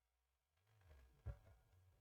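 Near silence: faint room tone with a low rumble coming in about half a second in and one soft knock a little past the middle.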